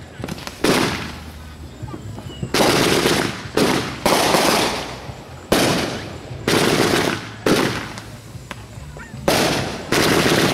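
Fireworks exploding: a string of about nine loud bangs at uneven intervals over ten seconds, each with a crackling tail that dies away over about a second.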